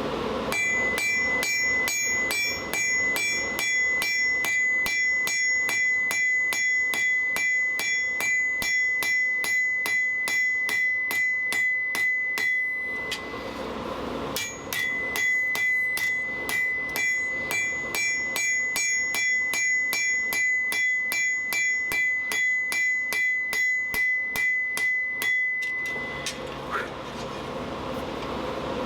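Blacksmith's hammer striking hot steel on an anvil in a fast, even rhythm of about three blows a second, each with a high steady ring from the anvil, as thin stock is drawn back down to width. The hammering runs in two long stretches, stopping briefly about thirteen seconds in and again a few seconds before the end.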